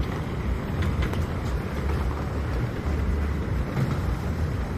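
Diesel boat engine running steadily with a low rumble.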